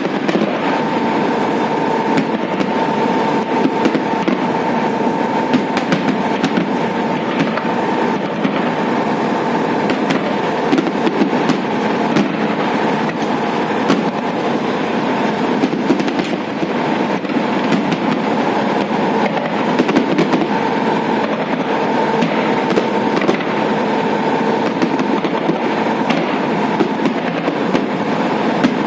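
Fireworks salute going off: an unbroken run of crackles and bangs, with a faint steady tone underneath.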